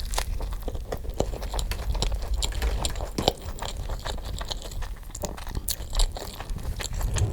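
A person chewing and biting into food for a mukbang, with many quick crisp crunches and clicks in fast succession; the eating is played sped up.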